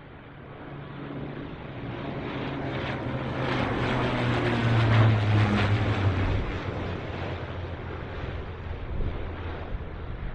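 Military jet flying low past: its engine noise swells to a peak about five seconds in, then fades away.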